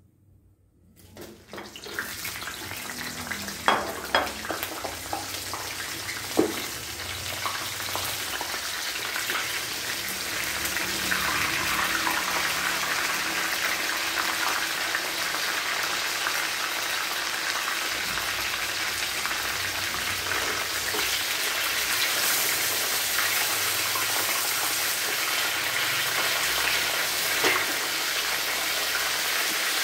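Lumpia shanghai (spring rolls) deep-frying in hot oil in a wok: a dense, steady sizzle that starts about a second and a half in and builds over the first ten seconds, with a couple of sharp clicks in the first few seconds.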